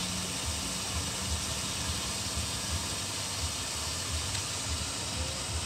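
Strong wind blowing in gusts: a steady rushing hiss with irregular low rumbles of wind buffeting the microphone.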